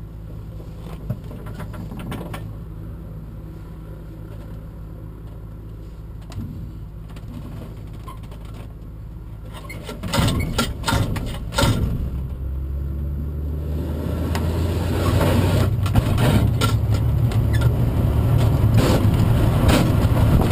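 Tow plane's engine running steadily ahead of the glider, heard from inside the glider's cockpit. About halfway through come a few loud clattering knocks, then the engine and a rolling rumble grow steadily louder as the aerotow takeoff roll gets under way.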